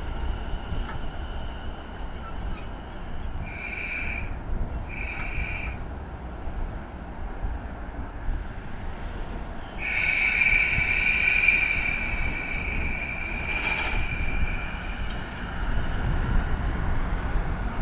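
Echizen Railway train running on the track, a steady low rumble with high-pitched wheel squeal: two short squeals, then a louder, longer one starting about ten seconds in that fades a few seconds later.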